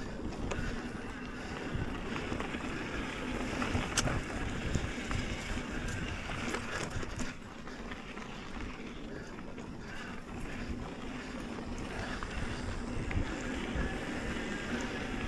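Mountain bike riding a dirt trail: a steady rumble of tyres over dirt and rocks with wind buffeting the microphone, broken by scattered sharp knocks and rattles from the bike, one stronger about four seconds in.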